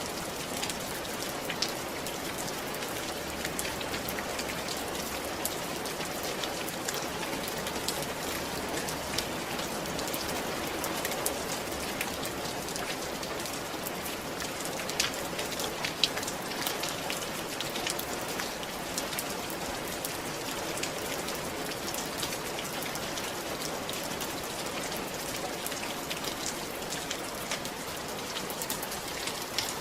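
Steady rain falling on a roof, a dense patter of drops with a few sharper drop hits along the way.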